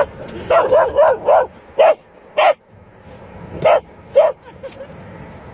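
A dog barking repeatedly in short barks: a quick run of four, then single barks at uneven gaps, about eight in all, stopping a little after four seconds in.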